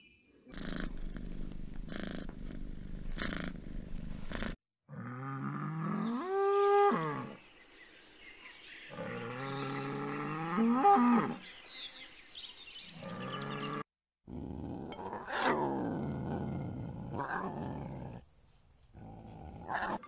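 Cattle mooing: several separate long, low moos, some rising in pitch at the end, after a stretch of rustling noise with a few sharp sounds.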